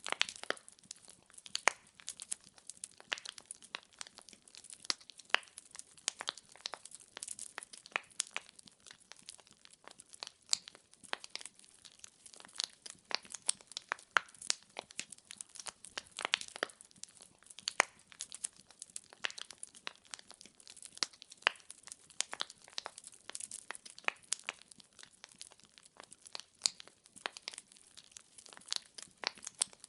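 Wood fire in a fireplace crackling: logs popping and snapping in irregular sharp clicks, several a second, with no music.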